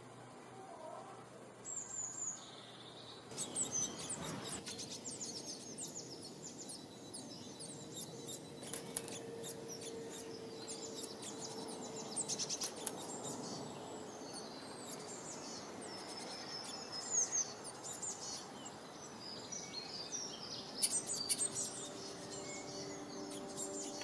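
Small songbirds chirping and singing, a quick run of high chirps and trills that thickens a few seconds in. Near the end, soft sustained musical tones fade in beneath the birdsong.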